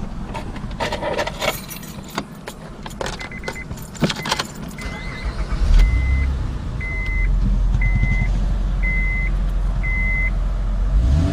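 Keys jangling and clicking, then a car's warning chime beeping about once a second. About halfway in, the Honda Pilot's engine starts with a jump in low rumble and keeps running steadily under the chime.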